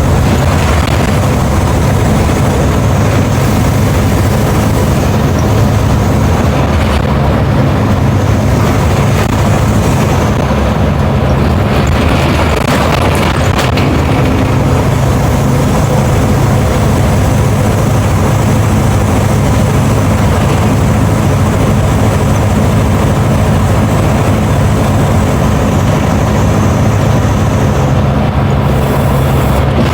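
Diesel engine of a Mercedes-Benz OF 1721 BlueTec5 bus running steadily, with a low, even drone and no change in pace.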